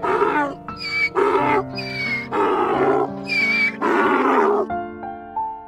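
Donkey braying: a run of rasping hee-haws that stops near the end, over background music.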